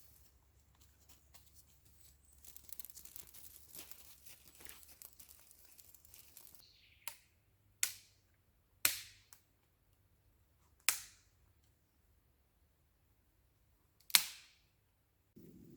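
Soft scraping and rustling for a few seconds, then five sharp cracks or knocks at uneven intervals, each ringing out briefly.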